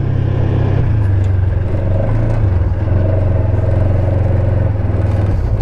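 Side-by-side UTV engine running steadily while driving, with a steady hum; the engine note drops a little about a second in.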